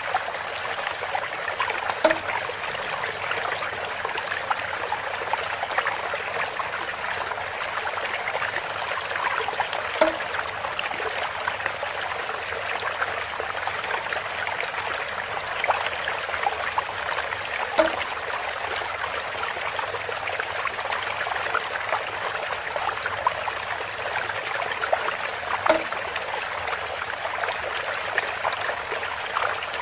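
Water trickling and splashing steadily from a bamboo spout. A brief, louder knock or plop comes about every eight seconds, four times.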